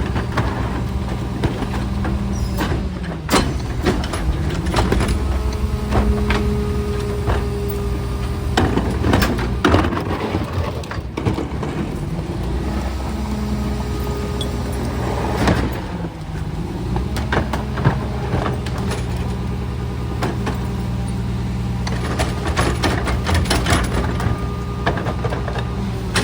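Garbage truck's diesel engine running, its pitch dipping and climbing again a few times, with scattered sharp knocks and bangs.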